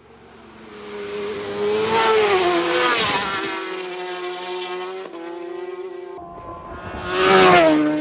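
Superbike-class racing motorcycles passing at racing speed on a road course, twice, the engine note climbing in loudness and then dropping in pitch as each goes by.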